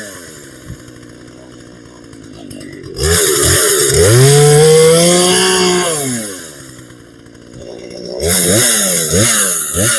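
Temu two-stroke gas chainsaw idling and being revved: a couple of short blips about three seconds in, one long rev from about four to six seconds, then several quick blips near the end, dropping back to idle between.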